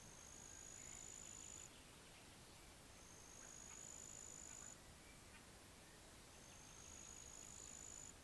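Faint, high-pitched insect buzzing in repeated bouts of about two seconds each, three times, each bout rising slightly in pitch. Faint scattered short calls sound lower down between the bouts.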